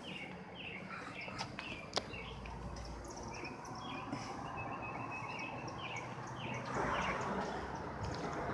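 Small birds chirping: short downward-sliding chirps repeated every half second or so, over a faint low steady rumble. Near the end a louder, even rushing noise comes up and stays.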